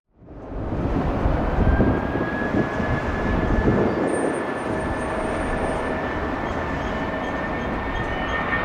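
Jet airliner's engines running, a steady rumbling roar with a high steady whine coming in about a second and a half in.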